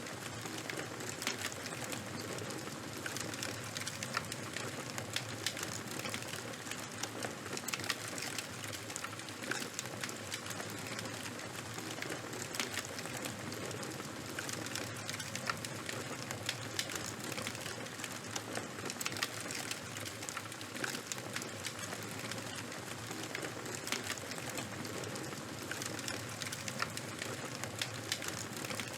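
Charcoal fire crackling: a steady hiss dotted with many small sharp pops and snaps.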